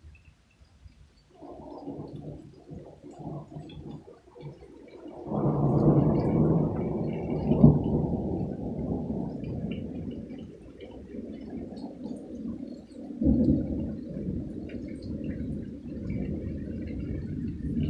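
Thunder rolling after a lightning strike: a low rumble that starts about a second and a half in, is loudest around six to eight seconds in, and swells again about thirteen seconds in.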